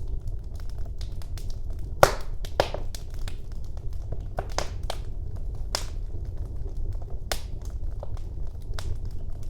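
Wood fire burning in a fireplace: irregular sharp crackles and pops over a steady low rumble of the flames, with the loudest pop about two seconds in.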